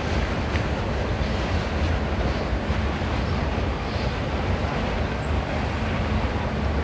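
Freight train of autorack cars rolling past at steady speed: a continuous rumble of wheels on the rails and rattling cars.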